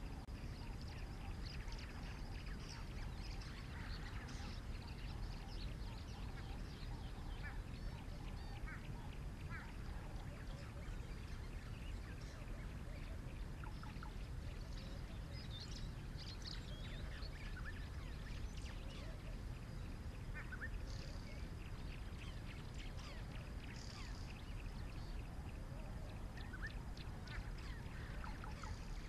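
Outdoor ambience of wild birds calling in many short, scattered chirps over a steady low background rumble.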